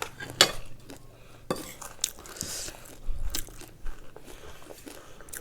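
Crunchy snack chips being bitten and chewed close to the microphone, a series of sharp crunches about a second apart.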